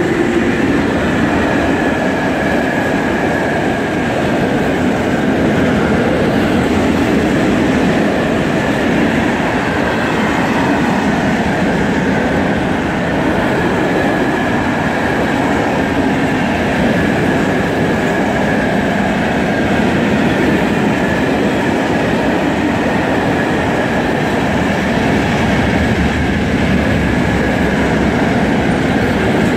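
Long freight train of open-top wagons behind an electric locomotive passing close by: a loud, steady rumble and clatter of steel wheels on the rails, with a faint thin high squeal running through it.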